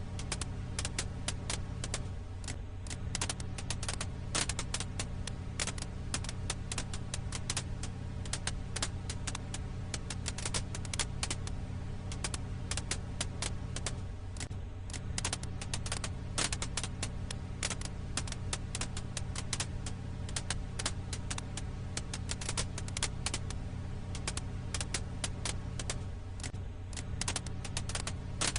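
Firewood crackling: a dense, continuous run of small sharp pops and ticks over a steady low hum.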